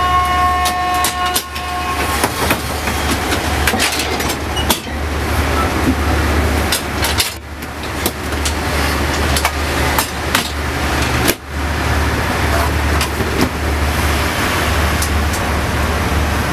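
Inside a moving sleeper-train carriage: a steady low rumble and rattle with frequent short knocks and clacks. A brief two-note tone sounds in the first couple of seconds.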